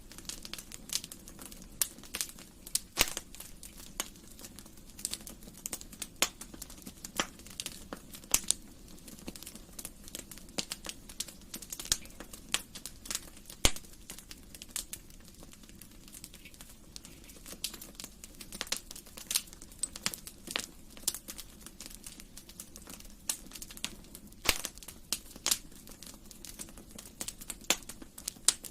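Wood fire in a fireplace crackling, with frequent irregular sharp pops and snaps over a low steady rush of flame.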